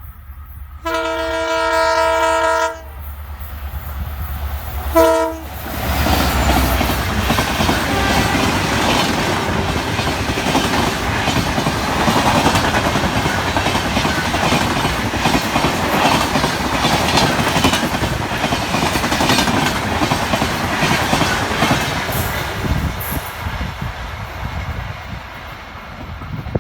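An Indian express train's locomotive horn gives a long blast of about two seconds a second in, then a short toot at about five seconds. The train then passes at speed, with loud rushing and rapid wheel clatter, fading near the end.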